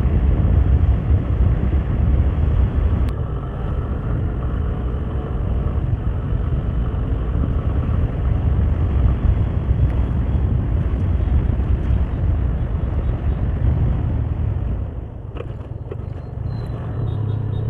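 Yamaha FZ25 single-cylinder motorcycle running along the road, its engine rumble mixed with wind rushing over the microphone; it eases off somewhat near the end.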